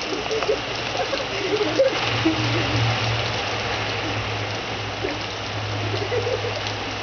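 Steady rain falling, an even hiss, with a low steady hum underneath and faint distant voices.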